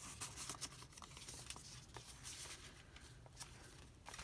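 Faint paper rustling with small scattered clicks and taps as the card and paper pages, envelopes and journaling cards of a handmade junk journal are handled and turned.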